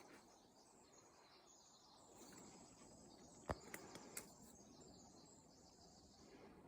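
Near silence: faint woodland ambience with faint high chirping, and a sharp tick about three and a half seconds in followed by two softer ticks.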